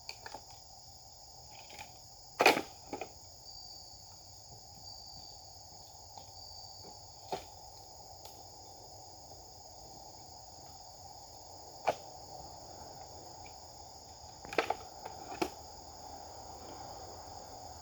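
Steady chirring of insects, with several short sharp swishes or knocks standing out over it: the loudest comes about two and a half seconds in, and others follow near the middle and a pair toward the end.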